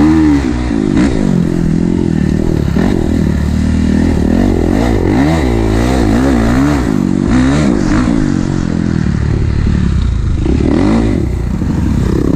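Kawasaki KX450 dirt bike's four-stroke single-cylinder engine under hard riding, its pitch rising and falling over and over as the throttle is worked.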